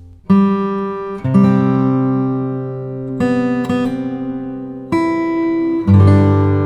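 Background music: acoustic guitar playing slow chords, each struck and left to ring, a new one every second or two.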